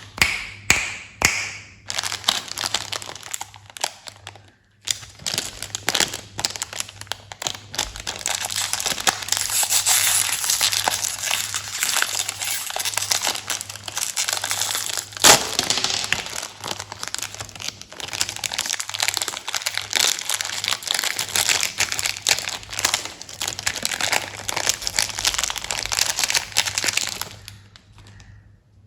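Plastic candy wrappers crinkling and rustling continuously as candies are handled and unwrapped, full of small crackles, with a few sharp clicks at the start; it stops shortly before the end.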